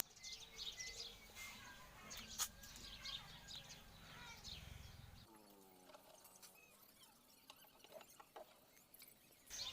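Near silence: faint background with a few distant bird chirps.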